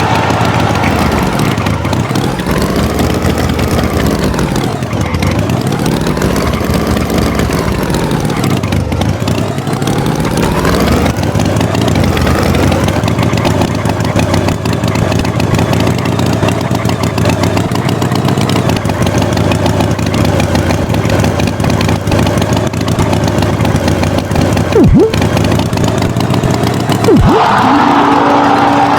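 Tractor engine running, its pitch rising and falling three times in the first ten seconds and then holding steady, with two short sharp sounds near the end.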